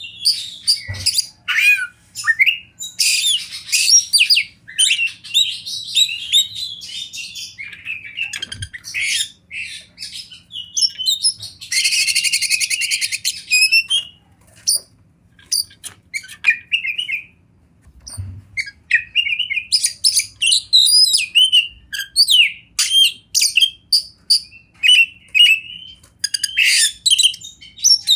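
Oriental magpie-robin singing a long, varied song of quick whistles, chirps and trills, with a harsh rasping phrase about twelve seconds in and a few short pauses.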